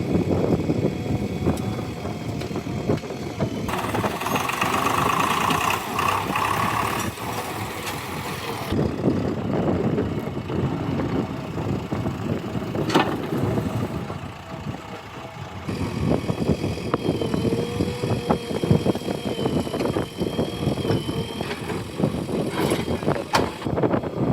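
JCB 3DX backhoe loader's diesel engine running as it digs and loads soil, with a thin wavering whine at times. The sound changes abruptly several times.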